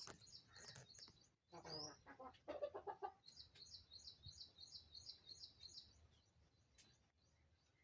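Faint clucking of a domestic hen, a few short calls in the first three seconds, followed by a fast, evenly spaced run of high chirps.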